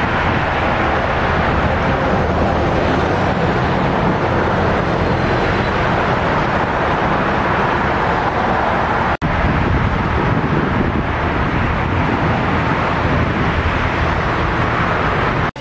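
Steady rushing noise of a moving road vehicle, with a brief break about nine seconds in.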